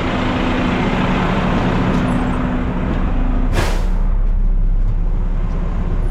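Front-load garbage truck's diesel engine running under way, a steady drone. A short, sharp air hiss from the air brakes comes about three and a half seconds in.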